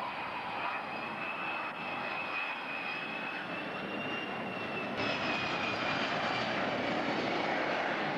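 Aircraft engine running at an air show: a steady rushing noise with a high whine that rises slightly and then falls, getting a little louder about five seconds in.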